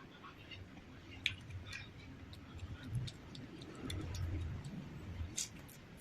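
A person eating, chewing with scattered wet mouth clicks and smacks.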